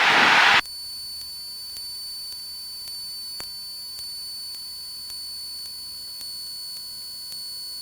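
Aircraft intercom audio: a half-second of open-mic cabin noise cuts off, leaving a steady high electronic whine over a faint low hum, with a single click about three and a half seconds in.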